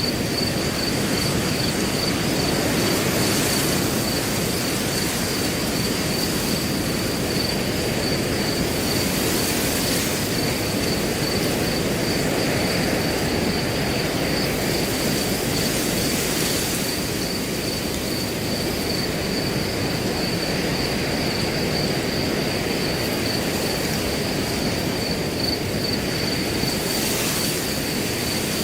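Wind blowing steadily through grass, with a cricket chirping in a continuous, rapidly pulsed high note over it.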